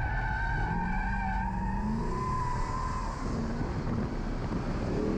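C6 Corvette's LS V8 engine running under throttle, its pitch rising and falling, with tires squealing through a drift for the first three seconds or so.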